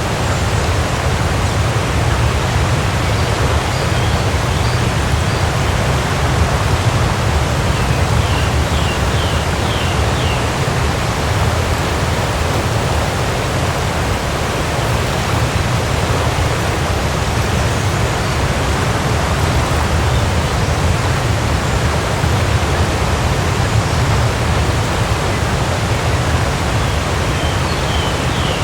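Waterfall rushing in a steady, even roar, heaviest in the deep bass. A short run of faint high chirps sounds twice, about a third of the way in and again near the end.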